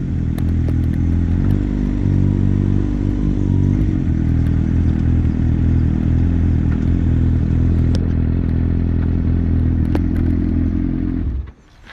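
2016 Kawasaki ZX-6R 636's inline-four engine idling steadily through a Two Brothers aftermarket exhaust, then shut off, cutting out suddenly near the end.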